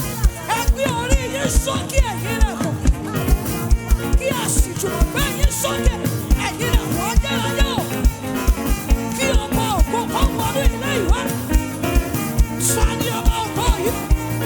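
Live band playing upbeat worship music, with a steady kick-drum beat and lead notes that bend up and down.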